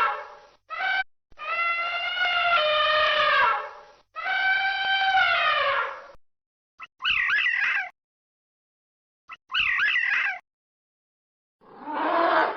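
A series of separate animal calls: two long calls whose pitch steps and wavers, then two short, rapidly warbling calls, and a deeper call starting near the end.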